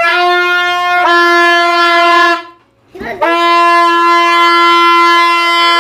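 Two long, loud, steady held notes of the same pitch, like a horn: the first lasts about two and a half seconds and the second about three, with a short silence between them.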